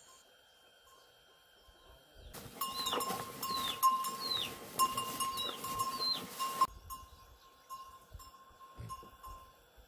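A run of about five short, high animal calls, each falling in pitch, that starts and stops abruptly over a rustling noise with clicks, with a steady insect-like trill behind.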